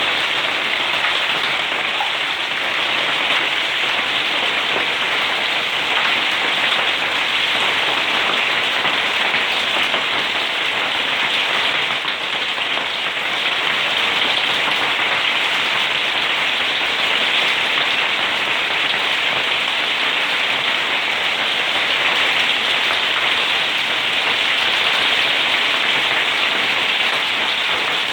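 Hail falling steadily, countless hailstones striking surfaces in a dense, unbroken patter.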